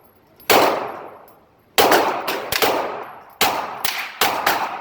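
A series of gunshots, about six in a row at uneven intervals, some close together near the end, each followed by a long ringing echo.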